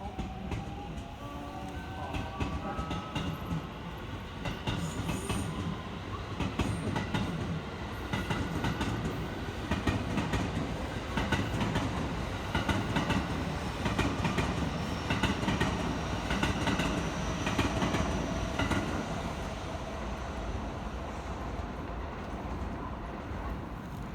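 Electric train moving through the station. Its motors give a stepped, rising whine as it gathers speed, then its wheels clatter over the rail joints in a quick, uneven run of clicks over a steady rumble. The sound is loudest in the middle and eases off near the end.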